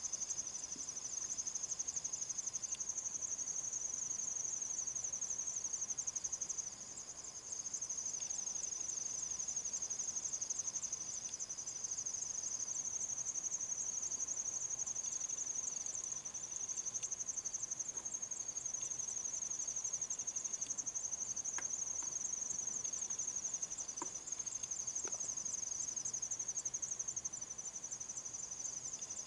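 Insects, likely crickets, trilling in a steady high-pitched chorus, with a second, lower trill joining in for stretches.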